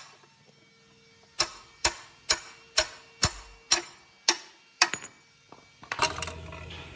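Hammer striking metal: eight sharp blows, about two a second, each with a short ring. Near the end a steady low machine hum starts.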